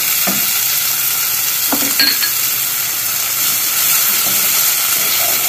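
Diced onion, bell pepper and tomato sizzling in a frying pan as a wooden spoon stirs them, with a few knocks of the spoon against the pan and a brief clink about two seconds in.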